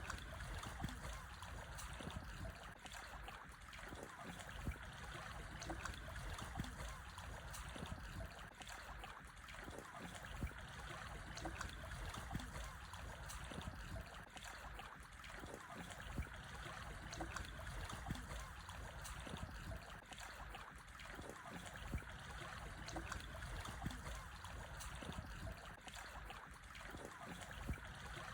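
Calm sea waves lapping against black stones on a shore: a steady wash of water with frequent small, irregular splashes and trickles.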